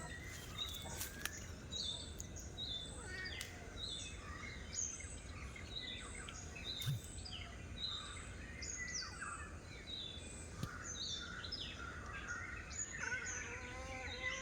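Several birds chirping and calling, many short high chirps overlapping, over a steady low background rumble; the calls grow busier near the end.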